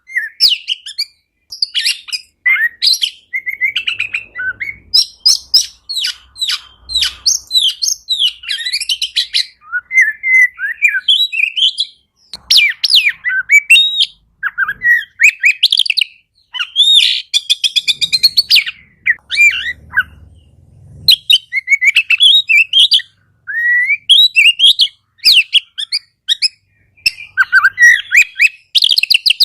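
Oriental magpie-robin (kacer) singing a long, energetic song of sweeping whistles, rapid trills and fast chattering clicks, broken by only short pauses.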